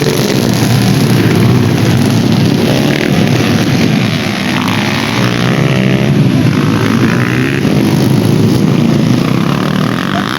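Motorcycle engines running hard at a dirt-bike race, the pitch rising and falling now and then as they rev.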